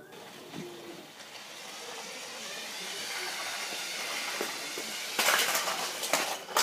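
A steady hissing noise that grows louder over several seconds, then a louder, harsher burst of hiss lasting about a second near the end.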